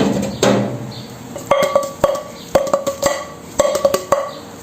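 Repeated hard knocks or clinks, about two a second, each with a short ringing tone.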